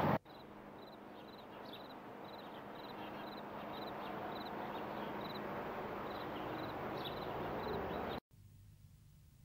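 Outdoor ambience: a steady hiss of open air that grows slowly louder, with small birds chirping over and over. It cuts off abruptly near the end.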